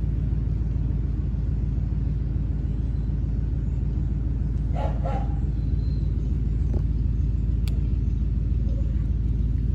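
A steady low rumble, with a short animal call about five seconds in and a single click near the end.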